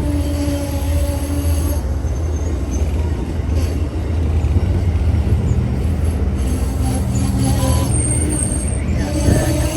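A train rolling past with a steady low rumble, with high-pitched wheel squeal coming and going and a brief sharper squeal near the end.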